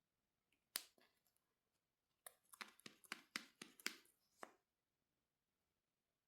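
A single sharp click just under a second in, then a quick run of about ten clicks and taps over two seconds from makeup containers and tools being handled; quiet otherwise.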